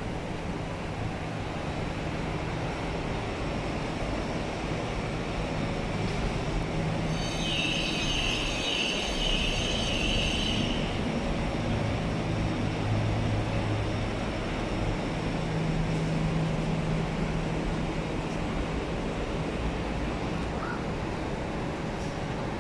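Cabin sound of an MTR R-Train electric multiple unit: a steady hum and rumble from the train's equipment, with low tones that shift slightly. About a third of the way in, a high, pulsing, whining tone sounds for about three seconds.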